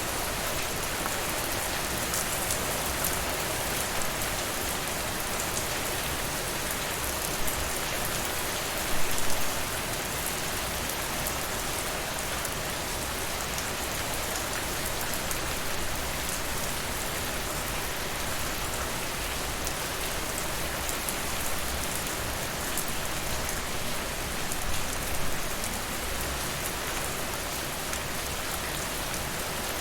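Steady rain falling, mixed with the small crackles of a wood fire in a fireplace. Two brief louder bursts stand out, about nine seconds in and again about twenty-five seconds in.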